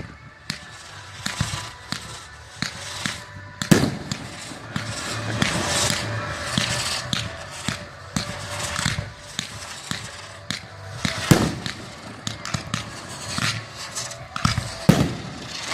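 A fireworks display going off: a rapid, irregular run of sharp bangs with crackling between them. The loudest bangs come about four, eleven and fifteen seconds in.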